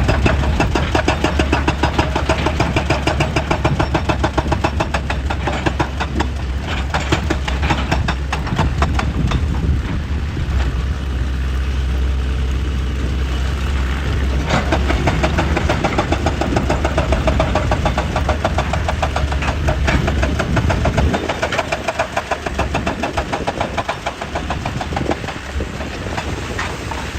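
Excavator's diesel engine running under load with a rapid, steady knocking, the deep engine hum easing about three-quarters of the way through.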